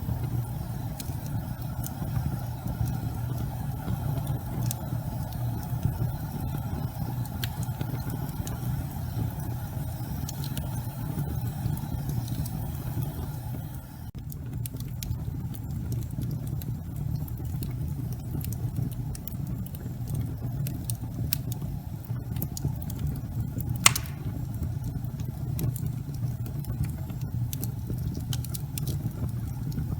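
Wood fire burning in a fireplace: a steady low rumble of flames with frequent small crackles and one loud pop about two-thirds of the way through.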